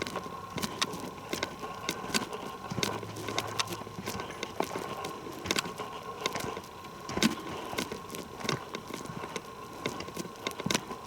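Footsteps crunching on a forest trail, an irregular step about once or twice a second, with a faint steady tone in the background.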